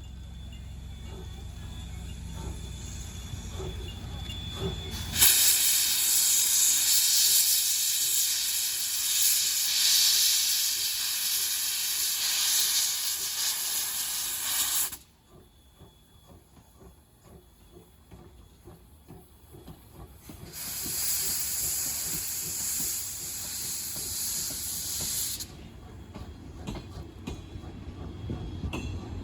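Steam locomotive (Chichibu Railway's C58 363) letting off steam in two long, loud hisses, the first about ten seconds long and the second about five, with a quiet gap between. A low rumble comes before the first hiss and again near the end.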